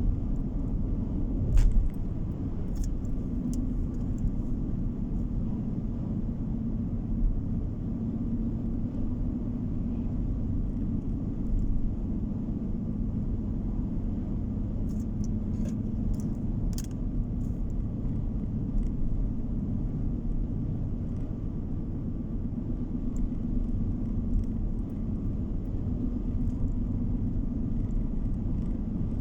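Car driving along a road: a steady low rumble of tyres and engine. There is a louder knock about a second and a half in, and a few faint clicks near the middle.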